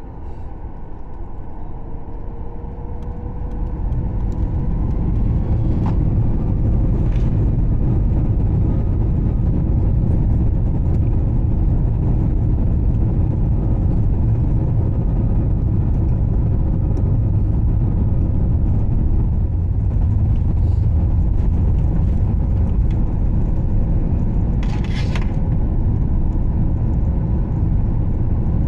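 Cabin noise of a Boeing 737 MAX 8 as its CFM LEAP-1B engines spool up to takeoff thrust. The sound swells over the first few seconds with a slightly rising whine, then settles into a steady loud rumble through the takeoff run and climb. A brief sharp clatter comes near the end.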